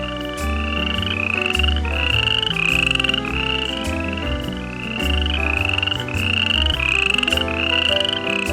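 A frog croaking over and over, short rising calls about one every two-thirds of a second, over background music.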